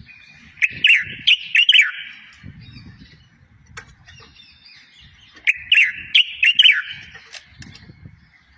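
A songbird, the 'watwat' of Moroccan bird-tutoring recordings, singing. It gives two short bursts of quick, sharp chirping notes about four seconds apart, each lasting about a second and a half.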